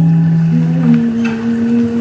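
Acoustic guitar music: a slow passage of long, held low notes.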